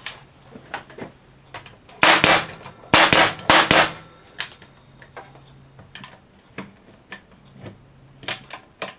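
A few loud, sharp strikes on the wooden bird feeder about two to four seconds in, fastening a part in place, among lighter clicks and taps.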